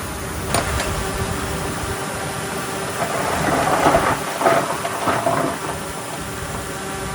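Heavy diesel earthmoving machinery running steadily. A sharp knock comes about half a second in, and a burst of clattering and scraping runs from about three seconds in to about five and a half.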